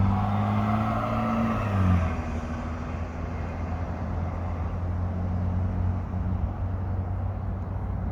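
Diesel locomotive engine running with a steady low drone; the pitch shifts about two seconds in, then holds steady.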